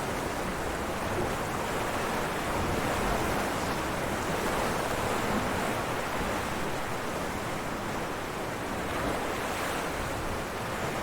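Ocean waves breaking on rocks: a dense, steady rush of surf with only slight rises and falls in loudness.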